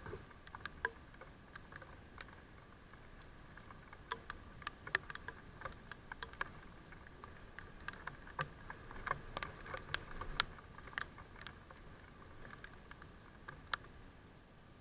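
Raindrops tapping irregularly on the camera, as scattered sharp clicks, over a faint steady hum.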